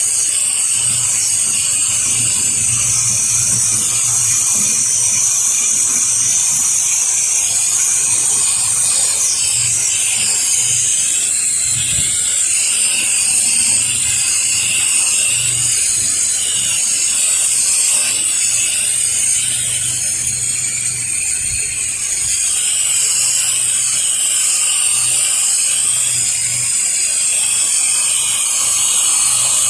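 Pressure washer spraying water in a steady hiss as it rinses a house's exterior, with the low drone of the machine running underneath.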